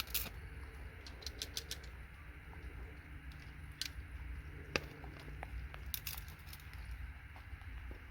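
Scattered light clicks and taps of small hard parts knocked and handled while scrap circuit boards are being stripped, a quick cluster about a second in and single ones later, over a low steady rumble.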